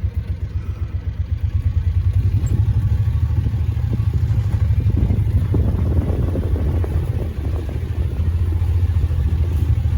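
Engine of a small farm vehicle running steadily as it is driven at low speed, a little louder from about two seconds in.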